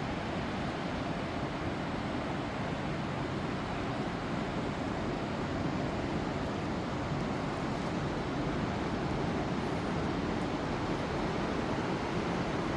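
Whitewater rapids of the Niagara River: a steady, even rush of turbulent water, with some wind on the microphone.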